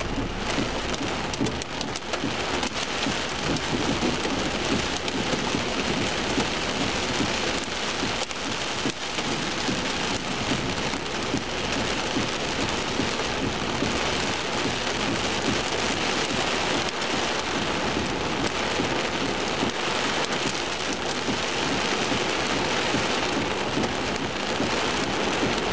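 Heavy rain with hail in a severe thunderstorm: a dense, steady downpour hiss peppered with many sharp ticks of hailstones striking.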